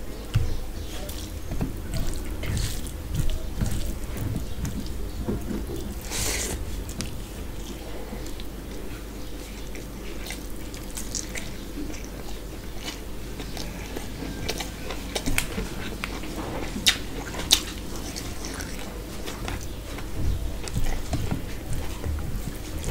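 Wet chewing and mouth smacks of someone eating rice and mutton curry by hand, with many short sharp clicks.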